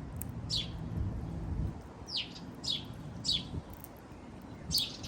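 Small birds chirping: five short, high chirps, each sweeping quickly downward, spaced unevenly, with a low rumble underneath that stops after about a second and a half.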